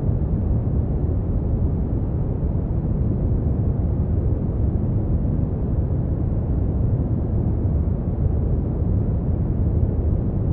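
Brown noise: a steady, deep rumbling hiss, strongest in the bass and fading out in the treble, unchanging throughout.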